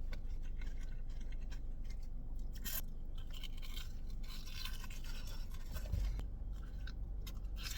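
A person chewing a mouthful of Korean fried chicken sandwich close to the microphone, with irregular crackly bites and mouth noises.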